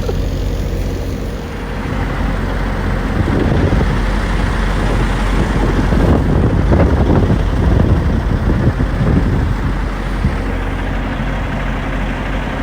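Semi-truck's diesel engine idling with a steady low hum, rougher and louder for several seconds in the middle.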